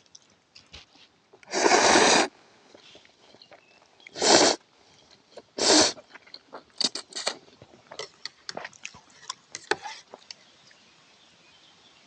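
Three loud noodle slurps: cold ramen being sucked up off chopsticks. Light clicks and taps of chopsticks and bowl follow.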